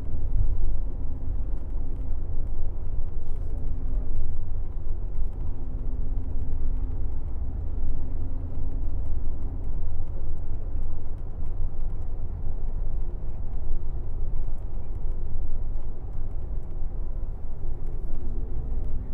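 Airport limousine coach running at speed, heard from inside the cabin: a steady low engine drone and road rumble, with the engine note shifting slightly in pitch a few times.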